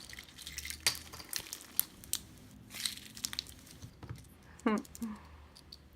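Glitter slime with googly eyes and pom-poms mixed in being squeezed and stretched by hand, giving off scattered crackling, crunchy clicks.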